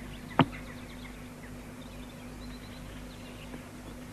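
Faint birds chirping over a steady low hum, with one sharp knock about half a second in.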